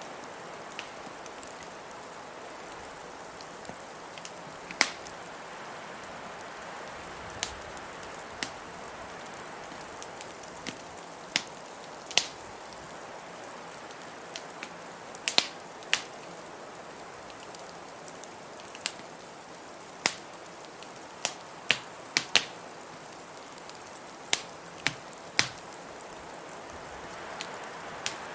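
Wood fire crackling with sharp, irregular pops every second or two, over the steady hiss of blizzard wind.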